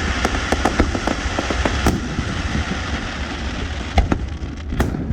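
Fireworks display: a dense run of pops and crackling bangs, with louder single booms about two seconds in, at four seconds and near the end, over a steady low rumble.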